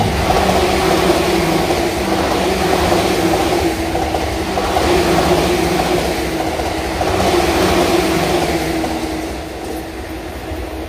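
JR East E235-1000 series Yokosuka Line electric train passing close at about 120 km/h: a loud, steady rush of wheels on rail with a humming tone. It eases off near the end as the last car goes by.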